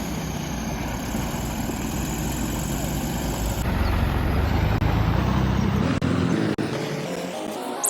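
Heavy diesel engine running steadily, with a sudden change in the sound about halfway through and a brief dropout later.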